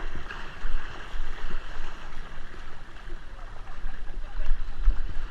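Kayak paddles splashing and hulls churning through water, with low rumble pulsing underneath.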